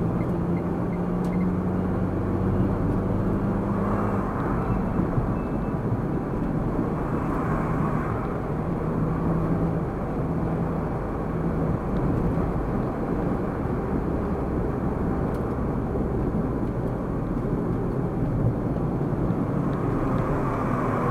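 Car driving along at steady speed: continuous road and tyre rumble with a low engine hum that is strongest in the first few seconds.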